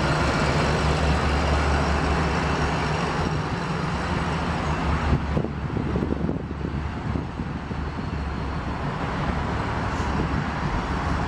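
The 1994 GMC Vandura's 350 cubic inch (5.7 litre) V8 idling steadily, with a constant wash of background noise. The low engine note fades about halfway through and comes back strongly near the end.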